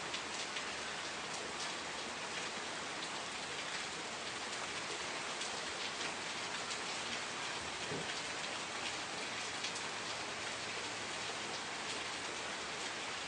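Steady rain falling on a surface, a dense even patter with many individual drops ticking through it.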